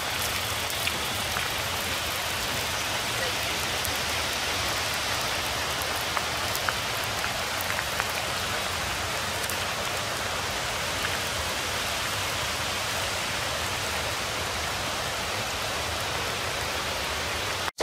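Steady rain falling, an even hiss with a few sharper ticks of drops landing close by.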